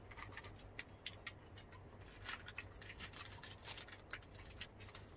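Close-miked eating sounds: people chewing and biting into crisp fried spring rolls (lumpiang Shanghai), a faint, irregular run of short crunches and wet mouth clicks.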